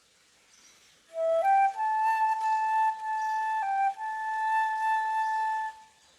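Solo flute playing a slow melody. About a second in it climbs through three notes to a long held note, dips briefly to a lower note and returns, holding it until it stops shortly before the end.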